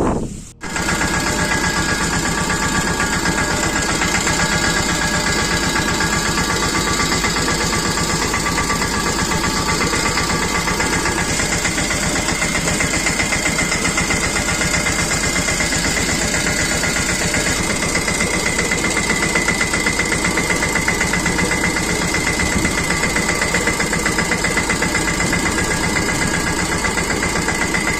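Fodder chaff-cutting machine running steadily, with a high whine over a rapid, regular beat.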